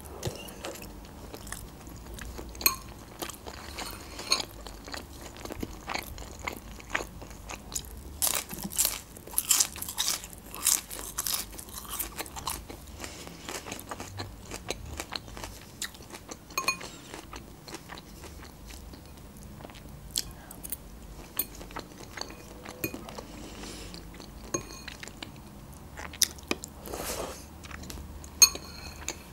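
A person chewing and crunching food in their mouth: a string of crisp crunches and wet chewing clicks, densest about a third of the way in, then sparser.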